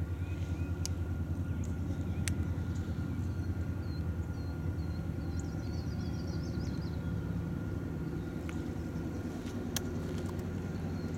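EMD GP38-2 diesel-electric locomotive's 16-cylinder two-stroke 645 diesel running steadily as it passes with a freight train, a throbbing low rumble with a few sharp clicks.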